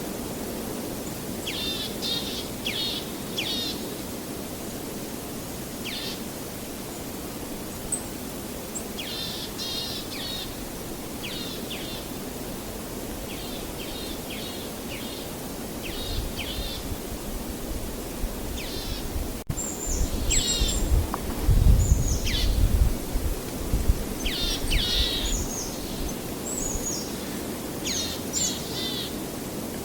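Songbirds chirping in short, rapidly repeated trills and calls over a steady low rushing background, with a deeper rumble swelling about twenty seconds in.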